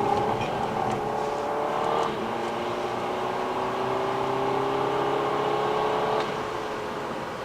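Car engine accelerating hard, pitch climbing steadily. About two seconds in it drops suddenly as a gear change, then climbs again until it cuts back sharply near the end as the throttle lifts or the next gear goes in.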